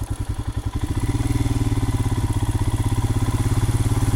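Royal Enfield Himalayan's single-cylinder engine running at low revs, picking up and getting louder about a second in, then pulling steadily.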